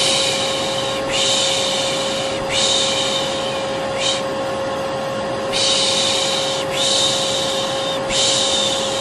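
Vacuum cleaner running with a steady drone and hum, while a person shushes over it in repeated 'shh' sounds, most about a second long and a couple brief, the lulling hush used to settle a baby to sleep.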